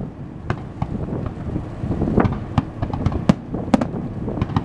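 Aerial fireworks bursting: about ten sharp bangs at uneven intervals, over a steady low rumble.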